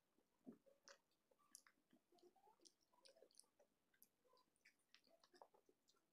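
Faint close-up eating sounds: soft, wet chewing and many small mouth clicks and smacks as khichuri is eaten by hand, with light squishing of fingers working the soft rice on the plate.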